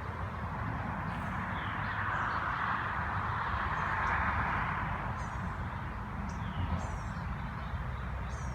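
Small birds chirping in short, high, quick descending calls that repeat every second or two, over a steady rushing background noise that swells slightly midway.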